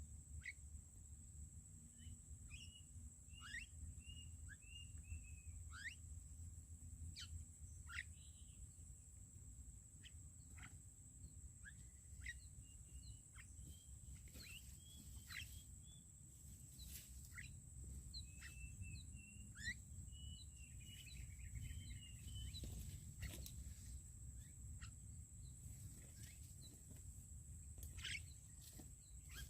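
Faint bird calls: many short, sharp chirps and several quick chattering runs, over a steady high-pitched whine.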